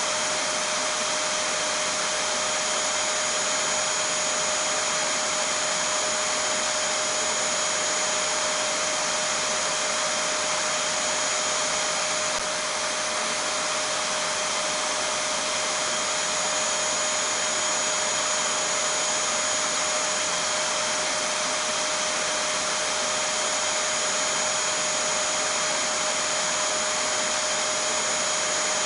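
Vacuum cleaner running continuously: a steady, unchanging rush of air noise with a constant whine over it.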